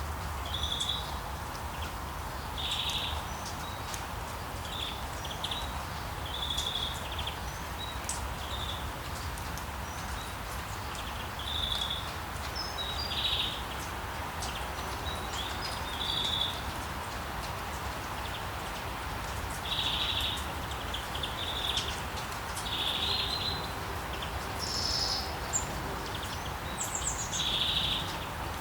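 Steady rain falling, with birds chirping over it in short high bursts every few seconds.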